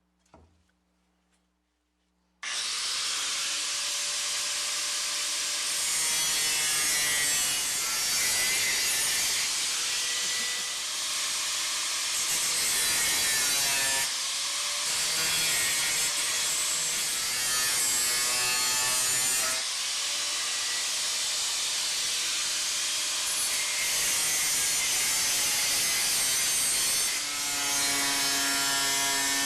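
A handheld power tool abrading a rusty metal surface in steady passes, a loud hissing grind that starts abruptly about two seconds in and shifts in level every few seconds as the tool moves.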